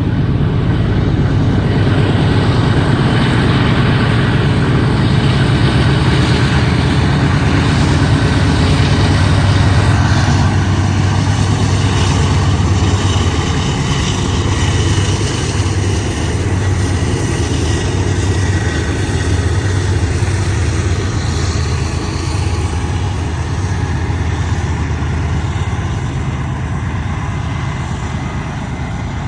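BNSF diesel locomotives hauling a freight train of autorack cars up a steep grade, their engines droning low and steady over wheel-on-rail noise. The sound is loudest about ten seconds in and then slowly eases off.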